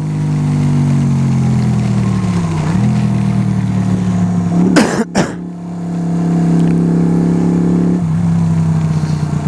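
A Yamaha YBR 125's single-cylinder four-stroke engine running under way. Its note sinks slowly, steps up about three seconds in, holds steady, and falls again near the end, with a brief burst of noise about five seconds in.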